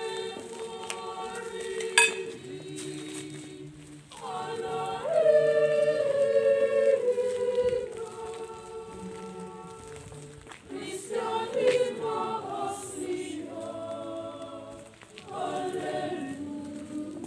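A group of voices singing together in phrases with long held notes and short breaks between them. There is a sharp click about two seconds in.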